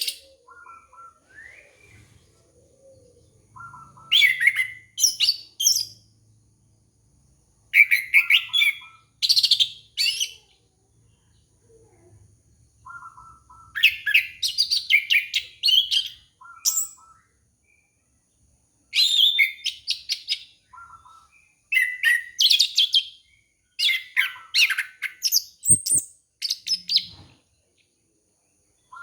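Orange-headed thrush singing: loud, varied song phrases every few seconds, each opened by a short lower note, with silent gaps between. A single brief click near the end.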